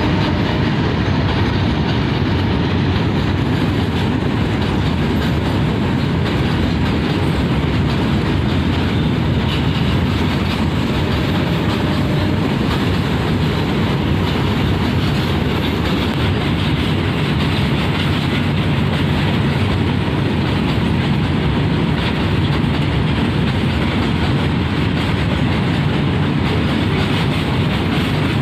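Indian train running along the track: a steady rumble with a dense, continuous clatter of wheels on the rails, at an even level.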